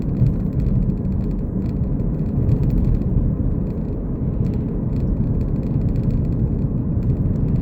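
Steady low rumble of a car's engine and tyres heard from inside the cabin while driving, with faint light rattles.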